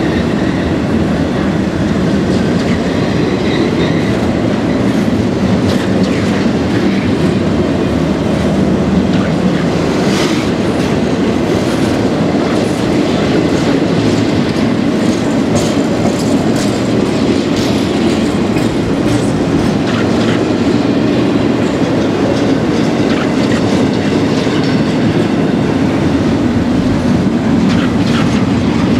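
Florida East Coast Railway intermodal freight train passing close by, a steady loud rumble of freight cars with repeated clickety-clack of wheels over rail joints.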